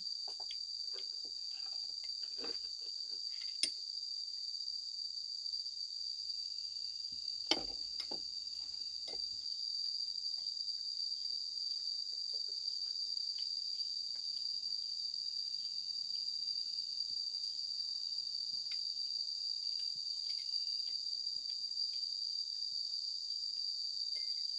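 A steady, high-pitched chorus of insects, typical of crickets, droning without a break. A few light clicks and knocks sound over it, with two sharper ones about three and a half and seven and a half seconds in.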